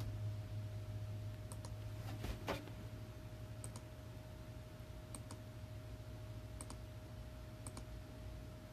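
Computer mouse clicking, single press-and-release clicks spaced one to two seconds apart, each one advancing a round of an online dice randomizer. A steady low electrical hum runs underneath.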